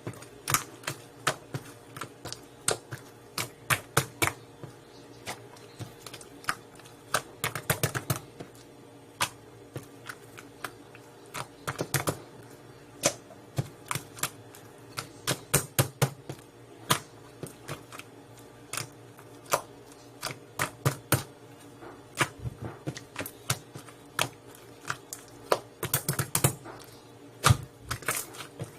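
Slime being played with, making many sharp, irregular clicks and pops, some coming in quick clusters.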